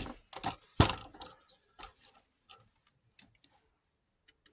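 Scattered clicks and knocks of a screwdriver and small parts being handled against an old film viewer's casing, the loudest about a second in, then sparser and fainter.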